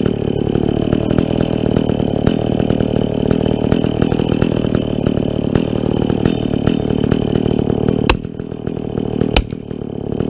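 Chainsaw cutting into a tree trunk, the engine running hard with its pitch wavering under load. About eight seconds in it drops back to a lower level, and two sharp knocks follow.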